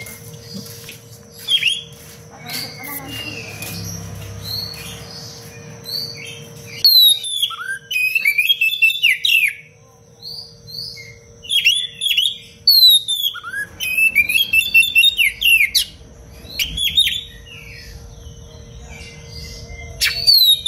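Oriental magpie-robin (kacer) singing in bursts of fast, tightly packed phrases with sharp falling whistles. Several bursts come with short pauses between them, over a faint steady hum.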